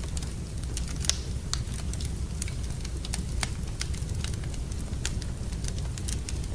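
Wood fire in a fireplace crackling: irregular snaps and pops, the sharpest about a second in, over a steady low rumble.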